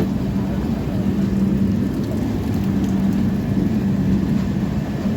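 Heavy-duty diesel locomotive engine running with a steady drone and a constant low hum.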